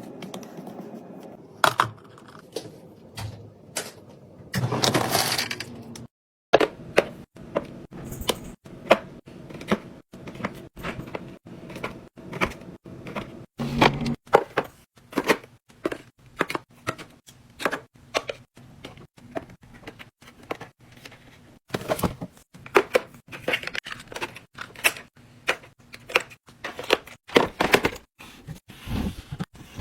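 Plastic containers, lids and food packages being handled and set down in a refrigerator: a run of irregular clicks and knocks, about one or two a second, with a longer noisy rustle about five seconds in.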